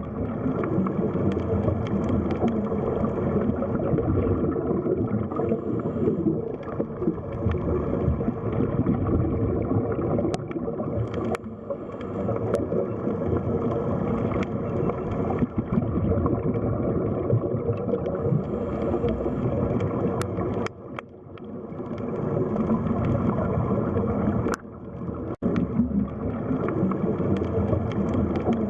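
Underwater ambience: continuous muffled gurgling and bubbling water, dull and low, with a few faint sharp clicks.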